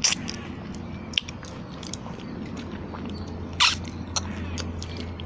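A person chewing food close to the microphone, with scattered wet mouth clicks and smacks, the sharpest about three and a half seconds in, over a steady low hum.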